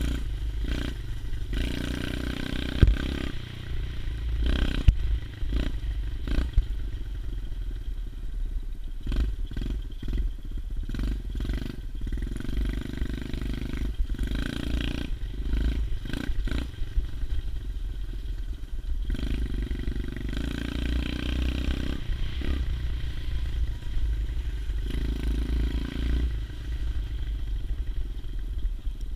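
110cc pit bike engine running while the bike is ridden, its revs rising and falling every few seconds over a heavy low rumble. A few sharp knocks or clatters come in the first seven seconds.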